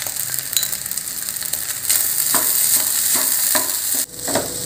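Egg fried rice sizzling in a nonstick pan while a wooden spatula stirs and tosses it, with a series of short scrapes and taps of the spatula against the pan. The sizzle grows stronger from about two seconds in.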